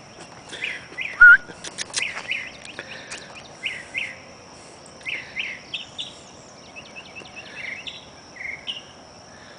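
Songbirds chirping and calling in short whistled notes, many of them falling in pitch, over a steady high-pitched insect drone. A couple of sharp clicks sound about a second in.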